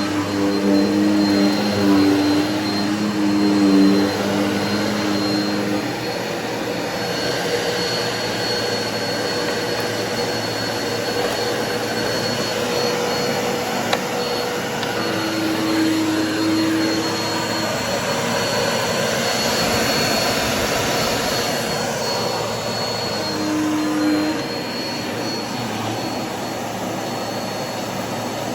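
Bissell vacuum cleaner running steadily while vacuuming, a constant motor noise with a steady whine. Its low tone shifts a few times: strongly in the first several seconds, and again briefly near the middle and about three quarters of the way through.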